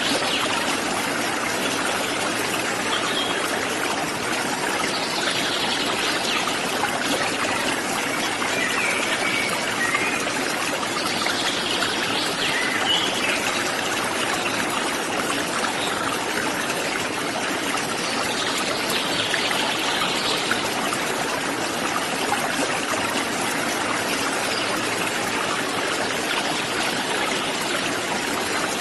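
Water running steadily over a small forest waterfall, an even rushing and trickling that never lets up.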